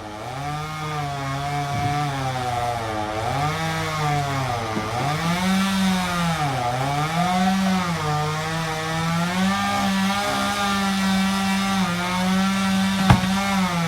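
Two-stroke chainsaw running and cutting, its engine pitch rising and sagging again and again as the chain bites into the wood. A single sharp crack comes near the end.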